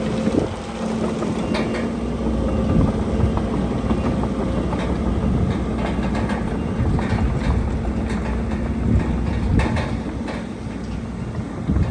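Heavy earthmoving machinery at work: a diesel engine running with a steady hum, with irregular metallic clanks and knocks throughout.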